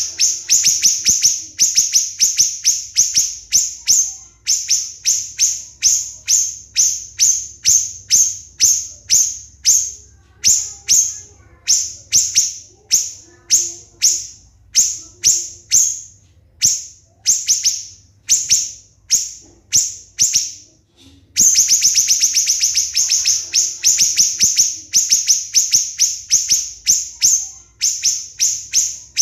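Siri-siri bird singing a long string of sharp, high-pitched repeated notes. The notes come in very fast, tightly packed runs, slow to about two a second through the middle, and break off briefly about two-thirds of the way through.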